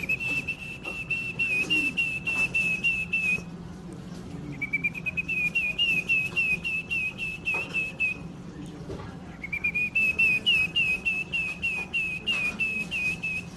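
A person whistling a warbling call to the birds, in three long phrases. Each phrase slides up at the start, then wavers in quick repeated notes, about five a second, with short pauses between phrases.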